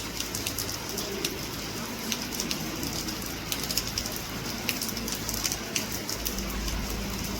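Steady rain falling, with many sharp individual raindrop ticks scattered through a continuous hiss.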